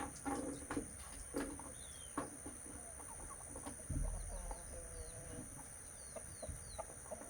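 Birds calling in the distance, with short clucking calls about four seconds in and small quick chirps scattered throughout, over a steady high-pitched drone. A few clicks are heard at the start.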